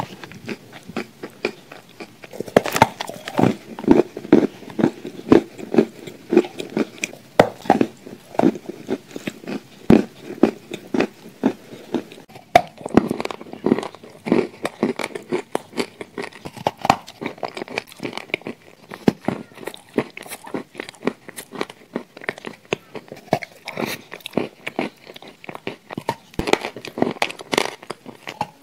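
Close-up chewing and lip smacking of someone eating shortbread cookies and chocolate cream spread, with soft crunches and wet mouth clicks coming a few times a second in an irregular run.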